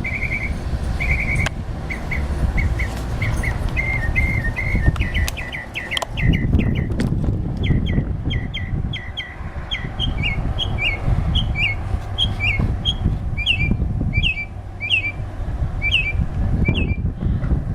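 A songbird singing a long run of short whistled notes that start as brief trills, quicken, and then settle into repeated notes slurring downward, about one or two a second. A low rumble runs underneath.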